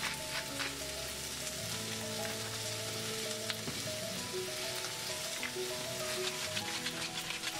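Sliced onions sizzling steadily in a stainless steel frying pan, with soft background music.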